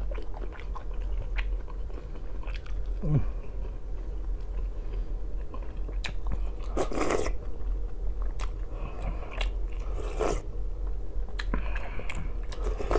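Close-up eating sounds: a man chewing with his mouth and biting into a whole boiled sausage while taking spoonfuls of borscht from a wooden spoon. Many small wet clicks, with two louder noisy mouth sounds about seven and ten seconds in.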